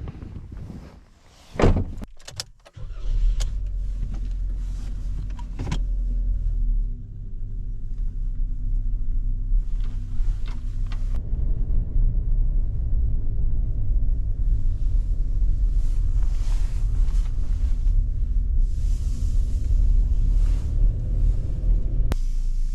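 A sharp thump like a car door shutting, then the Suzuki Jimny's engine starts about three seconds in and runs with a steady low drone that grows louder after a few seconds.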